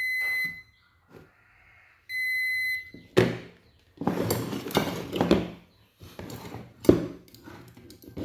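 Digital multimeter continuity beeper sounding twice, each a steady high beep lasting under a second. From about three seconds in come clicks, clacks and scraping of parts and probes being handled, with the sharpest knocks about three seconds in and near seven seconds.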